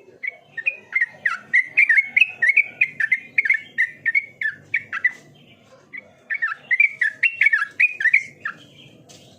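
Yellow-vented bulbul (trucukan) singing: a fast, bubbling run of short chirpy notes, a short pause about five seconds in, then a second run.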